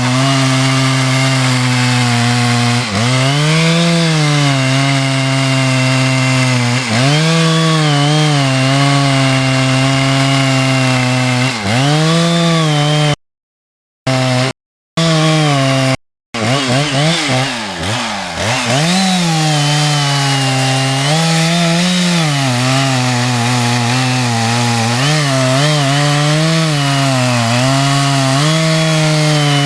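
Two-stroke chainsaw cutting through timber, its engine pitch dipping as it bogs under load and rising again as the cut eases, over and over. The sound drops out completely three times, briefly, around the middle.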